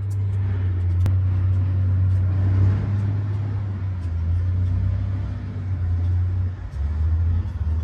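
Boom boat engine running steadily under load as the boat pushes logs, a deep, even drone that dips briefly near the end. A sharp knock about a second in.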